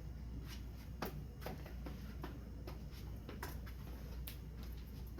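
Hands handling small objects, making a series of irregular light clicks and rustles, the sharpest about a second in, over a steady low hum.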